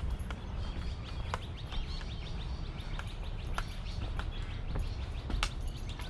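Outdoor ambience of small birds chirping, a quick run of short high chirps between about one and a half and three seconds in, over a steady low rumble, with scattered sharp clicks.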